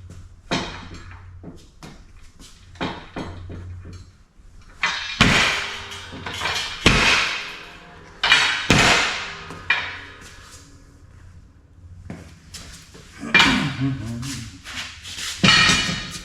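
A series of sharp metallic clanks and bangs, each ringing briefly: steel parts being knocked or struck in a workshop. The hits are irregular, with the loudest clustered in the middle and near the end.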